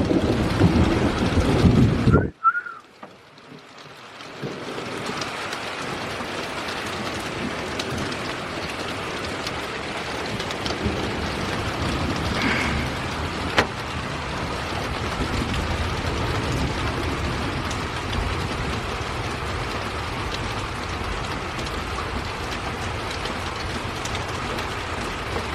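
Steady rain falling in a thunderstorm, an even hiss that builds in about four seconds in and holds. Before it, a loud low rumbling cuts off suddenly about two seconds in, and a single sharp tick is heard about halfway.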